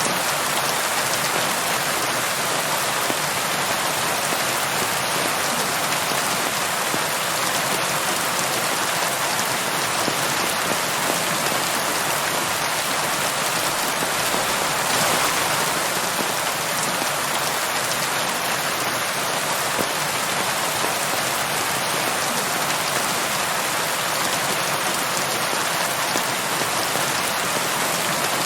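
Steady rain falling on a surface, a dense even hiss of many drops without thunder.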